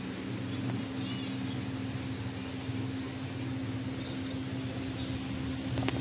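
Small aviary birds giving short, high chirps about every second and a half, over a steady low hum.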